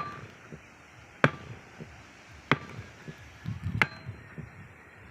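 Sharp strikes repeating at a steady pace, about one every 1.3 seconds, with quieter low rumbling between them.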